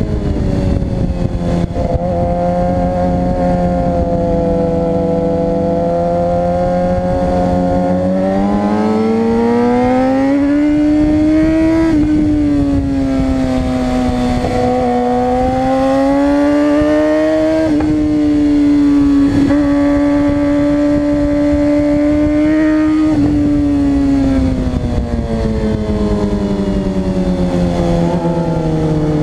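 Suzuki GSX-R600 inline-four sport bike engine running hard on a race track. Its pitch climbs under throttle and drops suddenly twice, then falls away slowly near the end as it slows.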